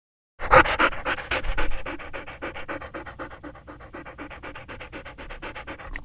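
A dog panting in a quick, even rhythm of short breaths, loudest at first, then steadier and quieter, cutting off abruptly at the end.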